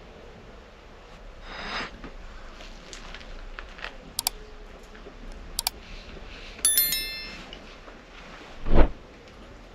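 Objects being handled: a soft swish, two sharp clicks, a metal clink that rings briefly, then a dull thump near the end.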